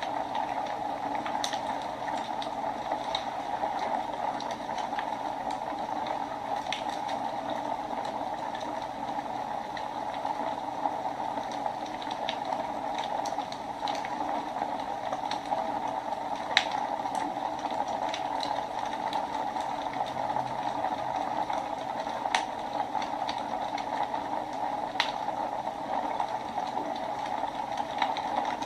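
Wood fire burning in a fireplace: a steady rushing hiss with sharp crackles and pops every few seconds, the loudest about two-thirds of the way through.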